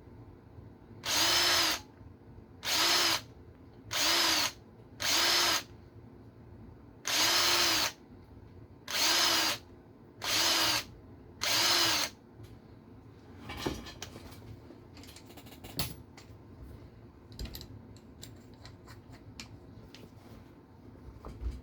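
Small power drill run in eight short bursts, each spinning up and winding down, to open up slightly too-tight holes. It is followed by light clicks and handling of small parts.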